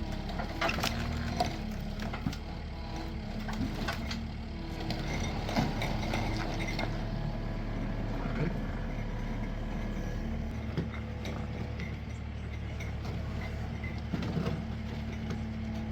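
Diesel engine of a Takeuchi compact machine running steadily, with scattered clanks and knocks of equipment and log being handled; the engine note shifts a little past halfway.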